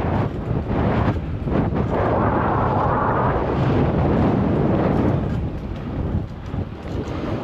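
Wind buffeting the microphone of a bike-mounted GoPro while riding, over rolling road and traffic noise. A louder hiss swells for about a second and a half near the middle.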